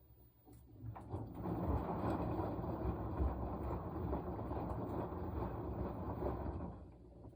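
Washing machine running one turn of its wash cycle. The motor and drum start about a second in, turn the laundry for about six seconds, and stop near the end.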